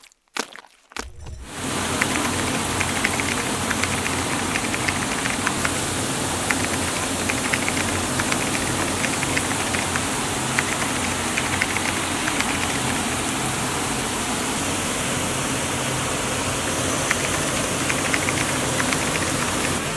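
Heavy downpour: a steady, loud hiss of rain with scattered patter of drops. It comes in about a second in, after a couple of brief hits.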